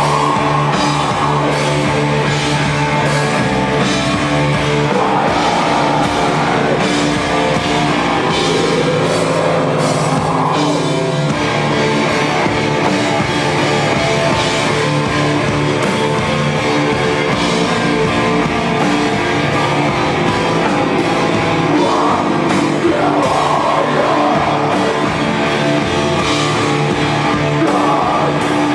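A rock band playing live: drum kit and amplified instruments at a loud, even level, with sliding melodic lines over a steady beat.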